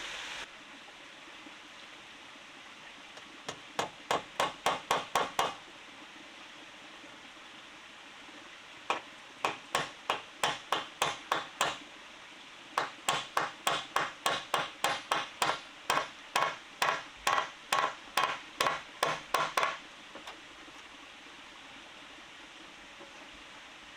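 Hammer striking in three runs of quick, evenly spaced blows, about four a second: hand hammering on wood while building a wall or door.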